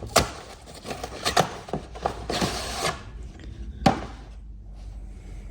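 Parts and tools being handled on a workbench: a few sharp knocks and clicks, with a short rubbing scrape about two and a half seconds in and the loudest knock near four seconds in.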